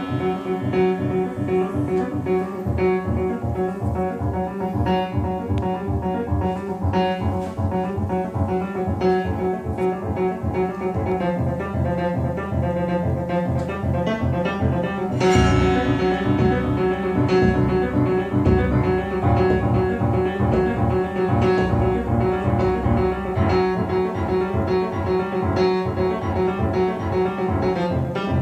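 Instrumental music played back from an Arcam FMJ CD23 CD player through an Arcam Diva A85 amplifier and Monitor Audio Silver RS6 loudspeakers, with a steady run of low plucked notes; the bass swells fuller about halfway through.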